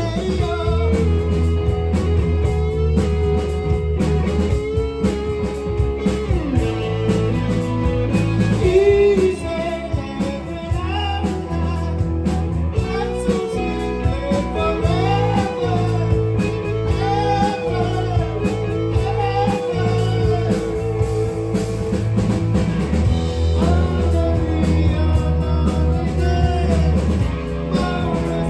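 Live rock band playing with lead vocals over two electric guitars, bass guitar and drums.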